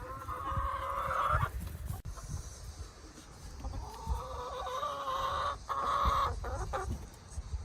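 Chickens calling: two long, drawn-out hen calls, the second beginning about three and a half seconds in, over a low rumbling noise.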